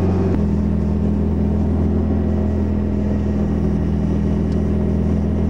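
Car engine droning steadily while driving, heard from inside the cabin; its pitch steps up slightly about a third of a second in and then holds even.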